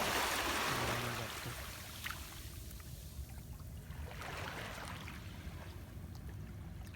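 Surf washing onto a beach: a wash of breaking water at the start that fades over a couple of seconds, then a second, softer wash about four seconds in, over a low rumble of the sea.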